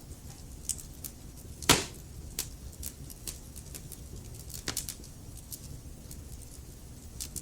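Wood fire burning in a fireplace: logs crackling with scattered small snaps over a low steady rumble of the flames, and one loud pop a couple of seconds in.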